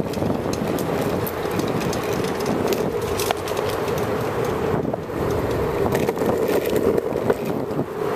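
Bicycle rolling along outdoors: steady rolling noise with scattered small clicks and knocks.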